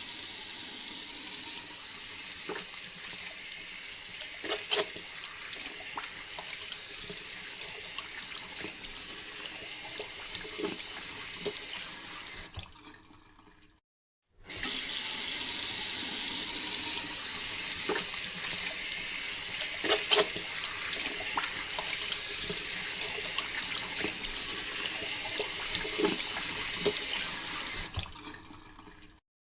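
Steady stream of water pouring and splashing, in two stretches broken by a brief silence about halfway. A few sharp splashes or knocks stand out above the flow.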